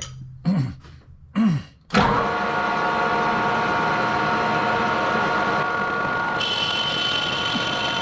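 Metal lathe switched on about two seconds in, then running steadily with a mechanical hum and several steady whining tones. A higher-pitched whine joins near the end.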